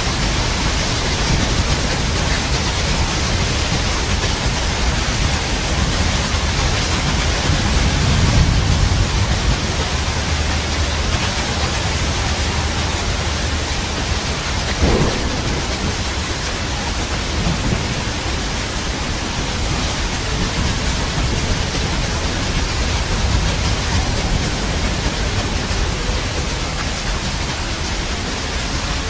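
Steady heavy rain with thunder: a low rumble swells about a third of the way in, and a sharp crack comes about halfway through.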